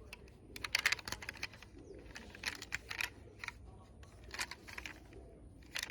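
Toy vehicles being handled: quick clusters of light clicks and rattles in several bursts, over a faint low hum.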